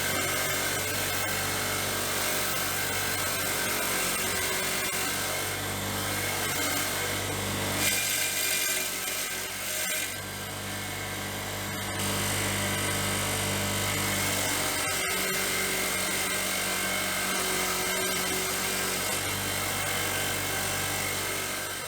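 Handheld power tool running steadily, a high whirr over a low hum, with a brief dip in load about ten seconds in.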